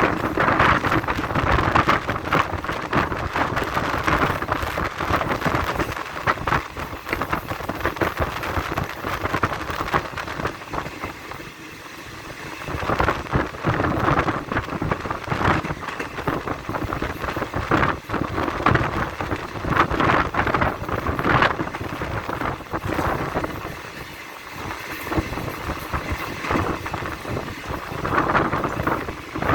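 Passenger train running, heard from on board: a continuous noisy rumble with wind, swelling and easing, with brief dips about twelve seconds in and again near twenty-four seconds.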